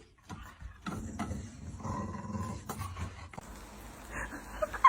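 A dog growling low, from about one second in to past three seconds.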